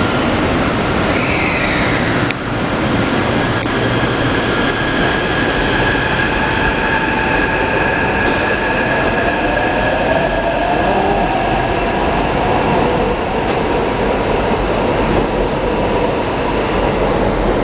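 Taipei Metro C381 train running on the track: a steady rumble of wheels and rails under the whine of its software-modified traction drive. One whining tone falls about a second in, and another rises around ten seconds in.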